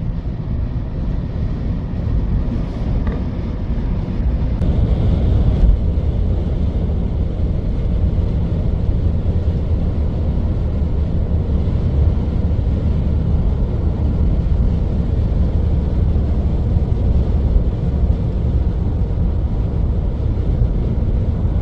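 Steady low rumble of a car travelling at freeway speed, heard from inside the cabin: tyre, road and engine noise, growing a little louder over the first few seconds.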